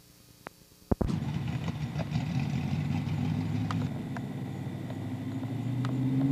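The 388 cubic inch V8 of a pro street '67 Camaro running steadily at low revs, its pitch rising a little near the end. It begins suddenly about a second in, just after two clicks.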